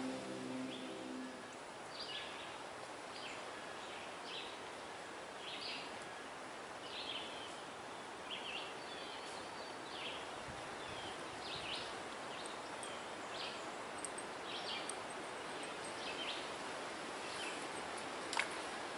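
Small birds chirping in short, repeated calls over a steady hiss of wind in the leaves. A low hum fades out about a second and a half in, and there is one sharp click near the end.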